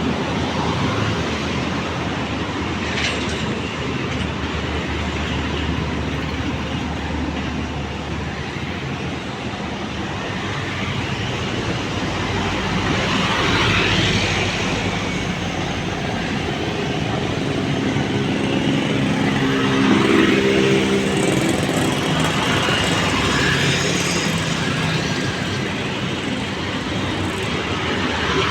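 Steady road traffic: engines and tyres running continuously, with vehicles passing close and louder about 14 and 20 seconds in.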